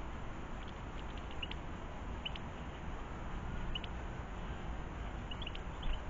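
Small garden birds giving short, high chirps, scattered and irregular, a few every second or two, over a steady low outdoor rumble.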